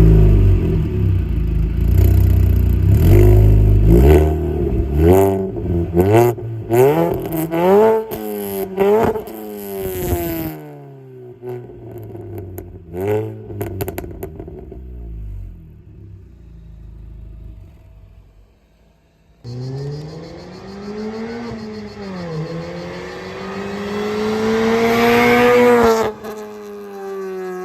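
Mini Cooper S R53's supercharged four-cylinder engine revved repeatedly in quick blips through its exhaust, with sharp crackles between revs, then settling to idle. After a cut, it accelerates hard: the note climbs, drops once at a gear change and climbs again before cutting off abruptly.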